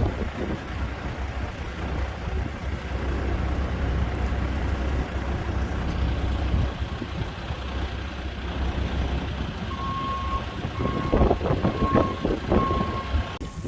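Low, steady rumble of an idling vehicle engine and wind. About ten seconds in, a reversing alarm starts beeping at an even pace, the sign of a snow-clearing vehicle backing up. A few knocks sound along with the beeps.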